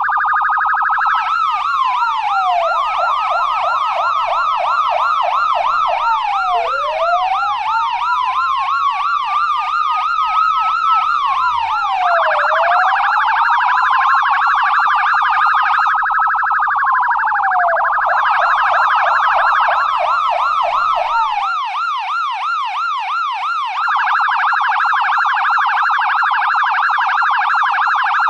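US police car electronic siren going through its tones: a slow wail that rises and falls over a few seconds, a fast yelp sweeping up and down a few times a second, and stretches of very rapid warble.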